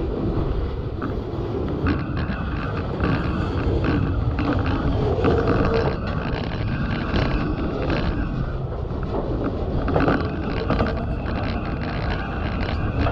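Ontario Northland manifest freight train's cars rolling slowly past, with clicking and knocking from wheels and couplers and creaking from the cars. It is heard through crackly, muffled noise on the microphone from rain that got into the camera's tripod case.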